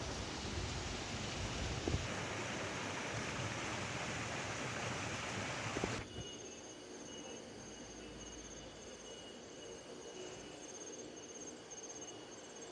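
A steady rushing noise that cuts off abruptly about halfway. Then insects chirping outdoors in rapid, high-pitched pulses.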